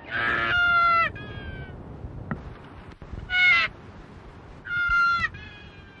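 A bird calling three times: loud, drawn-out calls, each with a rough start that settles into a clear, nasal tone and drops in pitch at the end. The first and last calls trail a softer, lower second note.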